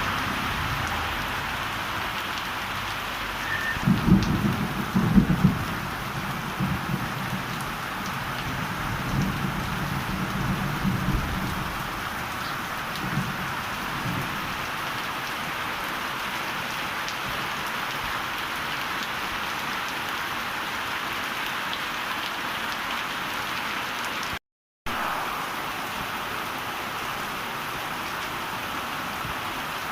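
Heavy rain pouring steadily with an even hiss. A few seconds in, a roll of thunder rumbles in, loudest at first and fading away over about ten seconds. The sound briefly cuts out entirely about three-quarters of the way through.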